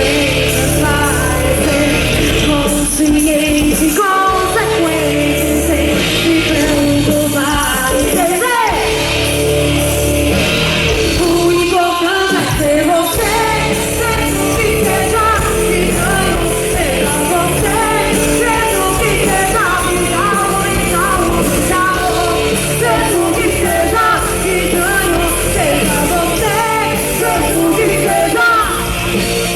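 Rock band playing live, with a strong bass and drum backing under a lead vocal.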